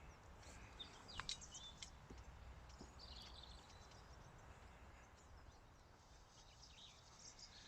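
Near silence, with faint bird chirps every few seconds over a low outdoor rumble.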